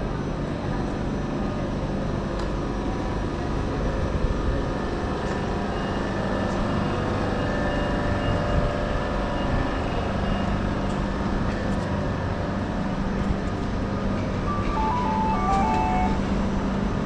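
Steady rumble of a busy railway station with a low machine hum under it. About two seconds before the end, a short chime of a few notes stepping down in pitch sounds from the station's public-address system.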